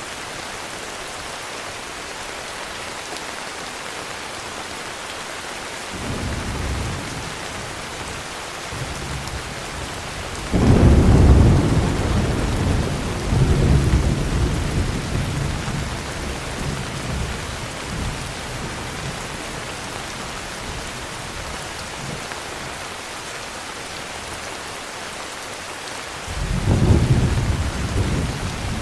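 Steady heavy rain hissing, with rolls of thunder: a first rumble about six seconds in, a loud crack-like onset at about ten seconds that rumbles on and fades over several seconds, and another rumble near the end.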